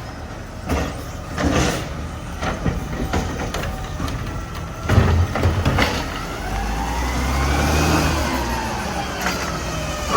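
Mack garbage truck working: scattered clanks and knocks, then about six seconds in the engine and packer whine rise and fall in pitch together over about three seconds as the truck packs its load.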